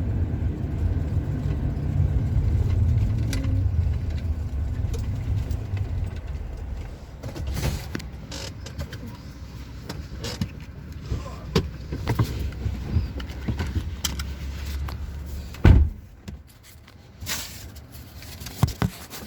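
Low rumble of a police car's engine and road noise, which eases about six seconds in and settles to a quieter hum as the car slows. A single loud thump comes near the end, after which only small scattered clicks remain.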